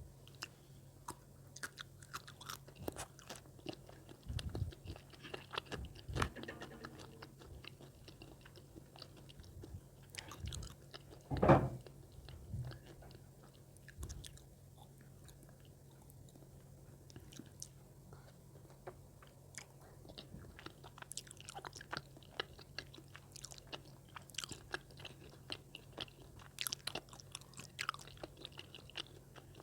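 Close-miked chewing and biting of spicy tteokbokki rice cakes: many small sticky clicks and mouth sounds, with one much louder sound about eleven seconds in. A faint steady low hum runs underneath.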